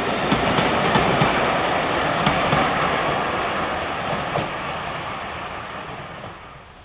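A steam-hauled train's carriages rolling past on the rails, the wheels clicking steadily. The sound fades away over the last few seconds as the train moves off.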